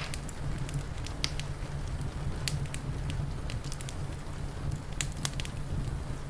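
Wood fire crackling, with scattered sharp pops over a steady low rumble and the hiss of rain.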